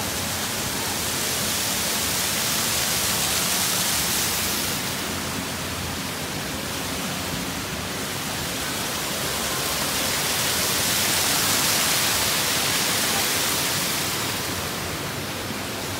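Waterfall rushing in a steady hiss of falling water, swelling slightly louder twice.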